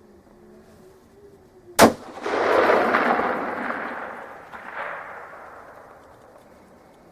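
A single shot from a 6.5 Creedmoor bolt-action rifle built on a Remington 700 action, a sharp crack about two seconds in. Its report rolls back across the open fields as a long rumbling echo that fades over about four seconds.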